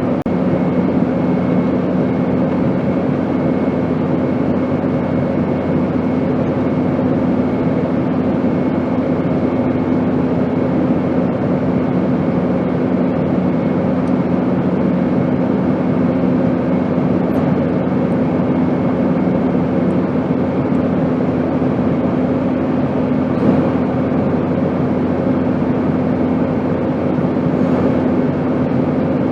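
Steady airplane drone: a constant rushing noise with a low hum under it. One of the lower hum tones fades out about two-thirds of the way through.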